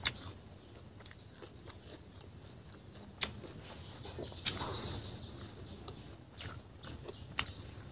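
Close-miked chewing of fried crab and rice, with a handful of sharp crunches and mouth clicks spread unevenly through the chewing.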